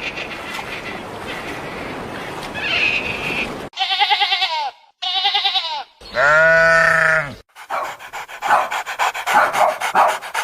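Goat bleating: two short quavering bleats start about four seconds in, then a louder, longer bleat follows. After that comes a quick run of short, clipped sounds.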